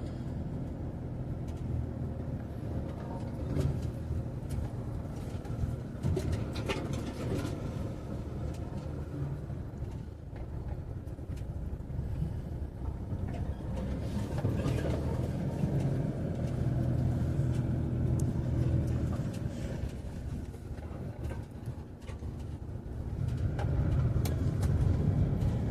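A motor vehicle's engine running steadily, with a few knocks and rattles, getting louder near the end.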